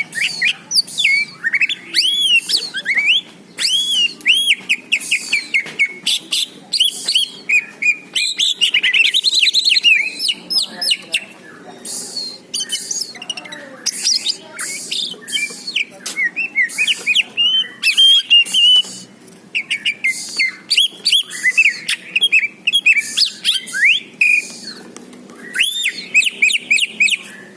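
A cucak ijo (green leafbird) singing a long, varied song of rapid chirps and whistled slurs, in phrases broken by a few short pauses.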